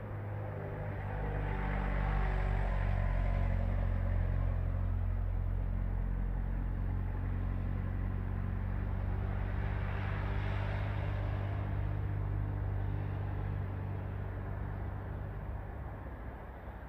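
Erupting volcano rumbling steadily and low, with two slow swells of rushing roar, one about two seconds in and one around ten seconds.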